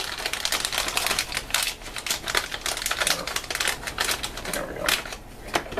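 Crinkling and crackling plastic of an MRE flameless ration heater bag being handled as the food pouch is pushed back into it: a dense run of rapid, irregular clicks that thins out near the end.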